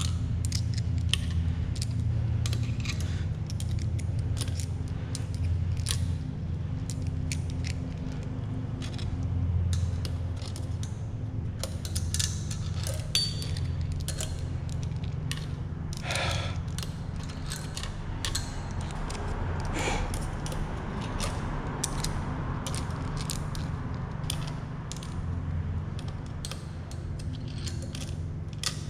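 Engine teardown work on a Ford Coyote V8: a ratchet clicking as bolts are backed out, and loose metal hardware clinking, over a steady low hum.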